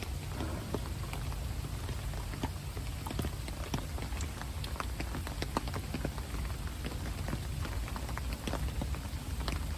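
Steady rain falling, with many separate drops striking close by as irregular ticks over an even hiss.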